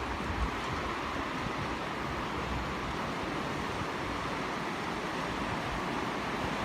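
Steady rush of water from a waterfall, an even, unchanging hiss.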